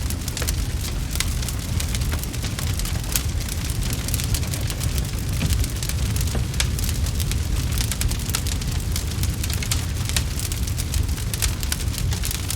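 Wood fire crackling in a fireplace: a dense scatter of small sharp pops over a steady low rumble.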